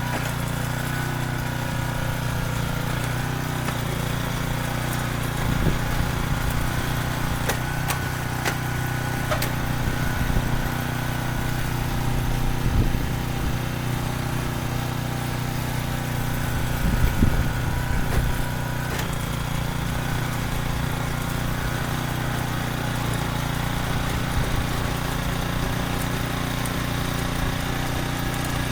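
Small petrol engine of a mini tiller (cultivator) running steadily, with a few louder knocks and surges along the way.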